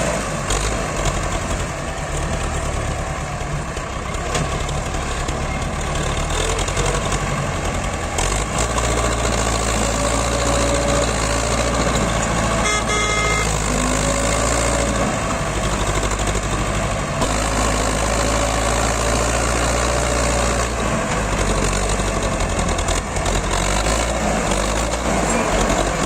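Tractor diesel engine running steadily, pulling a trolley loaded with mud. A short high-pitched tone cuts in briefly about halfway through.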